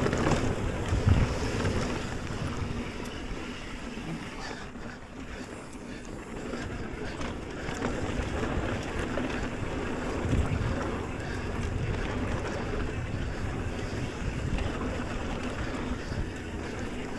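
Wind buffeting a body-mounted camera's microphone as a mountain bike rolls along a dirt trail, with tyre and frame rumble and a couple of low thumps, about a second in and again about ten seconds in.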